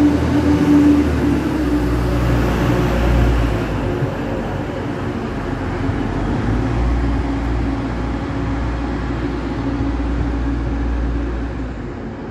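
Diesel multiple-unit train moving through the station: a steady engine drone over a low rumble, easing off a little near the end.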